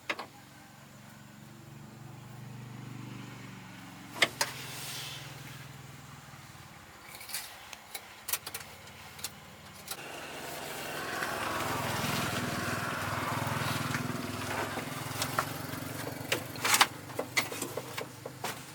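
An engine running with a low steady hum that swells for a few seconds in the middle, with scattered sharp clicks and knocks.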